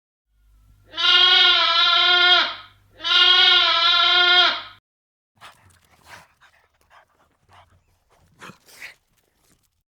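Two long, loud bleats, each about a second and a half, the second following closely on the first. Faint scattered clicks and rustles follow.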